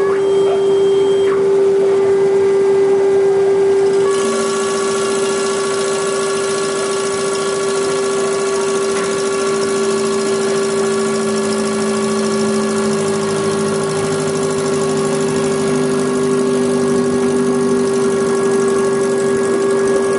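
Hager HD300A-CNC computer-controlled wood lathe running, with a steady motor hum and whine throughout. A hissing noise joins about four seconds in.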